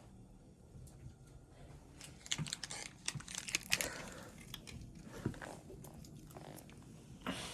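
Crinkling and rustling mixed with sharp clicks, as of something being handled at close range; quiet at first, then a busy cluster about two seconds in, scattered clicks after and one more burst near the end.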